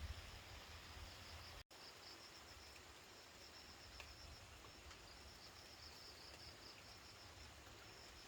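Faint, high-pitched insect chirping in uneven pulses over a low background rumble, with a brief break in the sound about a second and a half in.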